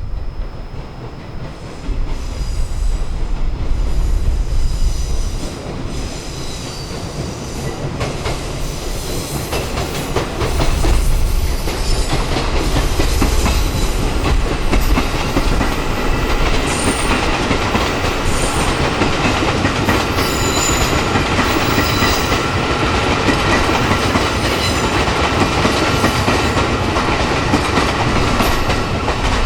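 A train running along the track, its wheels clicking over the rail joints, with short high-pitched wheel squeals coming and going.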